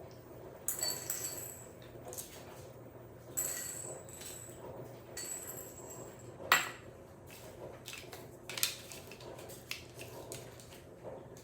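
Hands handling and fitting small parts of a build kit, with bursts of rustling and light clicks and one sharper knock about six and a half seconds in.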